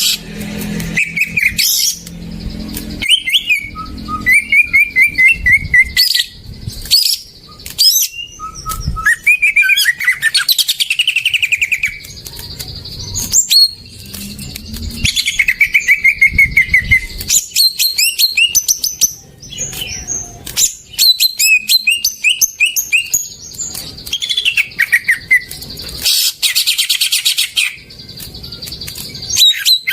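Green leafbird (cucak ijo) singing a fast, varied song of chirps and rapid note runs, phrase after phrase with short pauses between.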